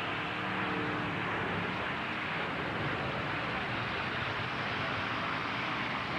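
Demolition derby truck engines running, heard as steady dense noise with no single impact. A faint pitched engine drone fades out about a second in.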